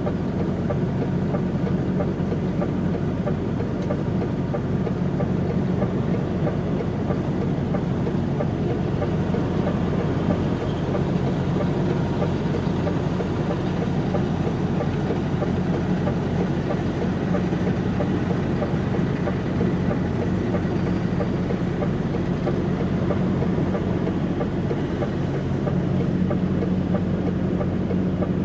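DAF XF105.460 truck's diesel engine running steadily, a low, even drone.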